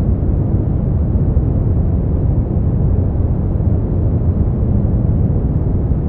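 Brown noise: a steady, deep, even hiss, strongest in the bass and thinning out toward the treble, with no tones or changes.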